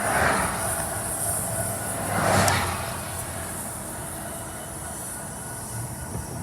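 Train rolling past with a steady noise of wheels on the rails. It swells twice and settles to a quieter level after about three seconds.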